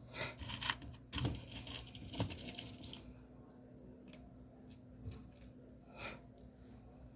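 Handling of beadwork materials: a few seconds of rustling and crackly clicks, then three separate small clicks about a second apart.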